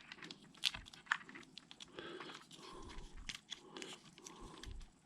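Faint handling noises as wires are fed out through the plastic case of a Traxxas Maxx RC truck: light rustling with a few sharp clicks.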